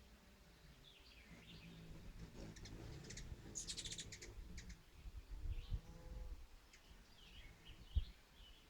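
Faint bird chirping: short calls that slide in pitch, with a fast dry chattering trill about three and a half seconds in. A single low thud comes near the end.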